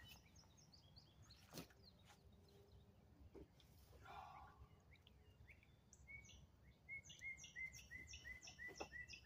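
Faint bird calls: a run of short, repeated chirps, about three a second, starting about six seconds in, with a few faint knocks earlier.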